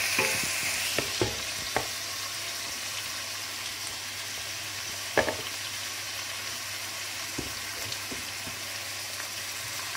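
Minced meat, onions and chopped tomato sizzling steadily in a stainless steel pot as they are stirred, with a few sharp clinks of the stirring utensil against the pot, the loudest about five seconds in.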